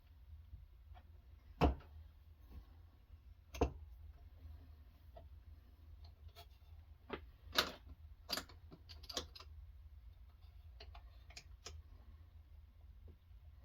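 Irregular hard clicks and light knocks, about a dozen of them, as sharpening gear is handled and set down on a bench, over a steady low hum.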